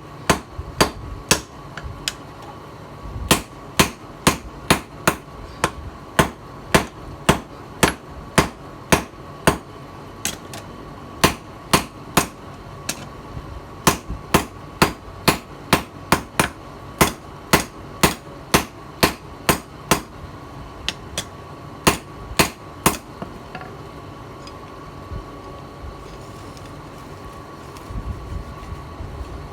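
Hammer forging the steel of a tiller blade on an anvil: sharp blows at about two a second in runs with short pauses. The hammering stops about three quarters of the way through.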